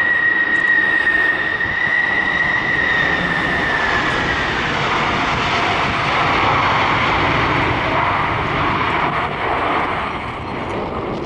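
Jet engines of a landing Boeing 747-400 freighter, a high steady whine over a rushing noise; about four seconds in the whine drops slightly and the rushing noise grows, then fades near the end.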